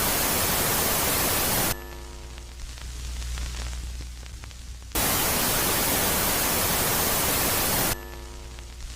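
Space-sound audio presented as Jupiter's moon Megaclite, alternating between a loud phase and a quiet phase. A loud, static-like hiss cuts off abruptly about two seconds in and gives way to a quieter low hum with faint hiss, then switches back abruptly to the loud hiss about five seconds in, dropping again just before the end.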